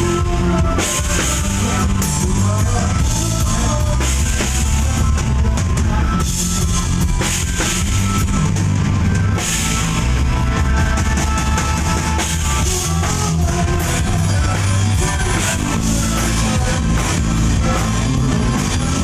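A live band playing loudly through a PA system during a sound check, with the drum kit to the fore over a heavy bass line.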